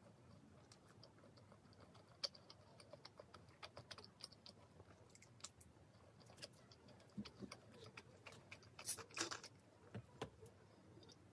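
Faint, scattered mouth clicks of quiet chewing, then about nine seconds in a short hiss as the plastic cap of a bottle of soda is twisted open, followed by a few small clicks as she drinks.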